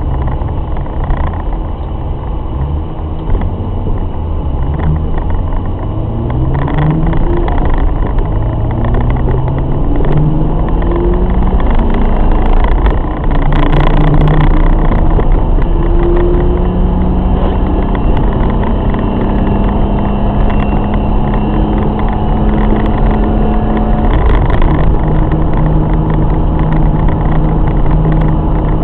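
BMW E30's M50B20 2.0-litre straight-six engine pulling through the gears. Its note climbs in pitch several times, dropping back at each upshift, then holds steady at cruising speed. Near the end it settles to a lower steady note.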